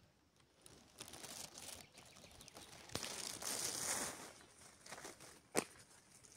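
Close rustling and crinkling, loudest about three to four seconds in, with a sharp snap a little before the end.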